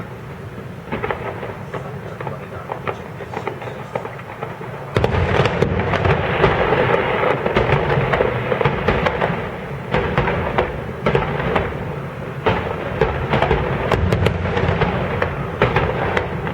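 Aerial fireworks bursting and crackling in rapid succession, becoming much louder and denser about five seconds in.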